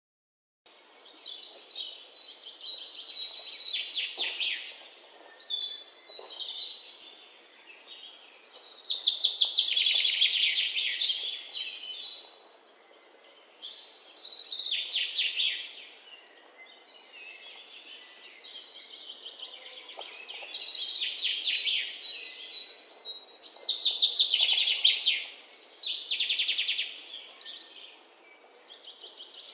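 Bird song: loud, rapid chattering trills in phrases of one to three seconds, repeated again and again with short gaps, beginning about half a second in.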